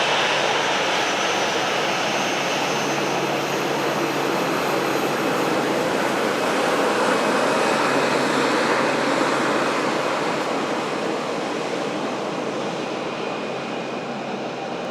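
Jet aircraft engines passing close by: loud, steady engine noise with faint high whining tones, swelling slightly midway and then fading toward the end.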